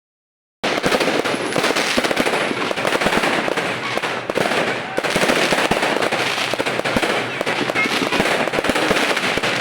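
Fireworks going off in a dense, continuous crackle of rapid pops, starting about half a second in.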